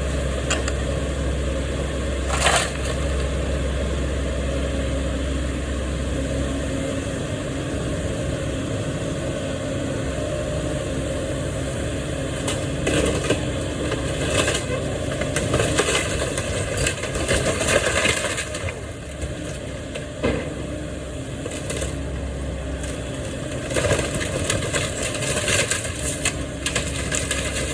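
Heavy demolition machinery running steadily, with repeated crashes and cracking as a building's walls are broken down. The crashes come in clusters in the middle and near the end.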